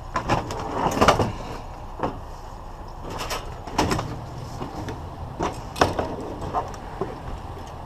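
Irregular sharp knocks, clanks and rattles of scrap items being handled, about a dozen in all, the loudest about a second in, over a steady low hum.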